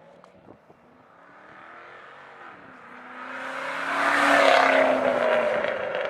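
2000 Camaro Z28's LS1 V8 with a Flowmaster exhaust, accelerating and approaching. Its engine note rises, drops suddenly about two and a half seconds in as if shifting gear, then swells to its loudest about four and a half seconds in and eases slightly.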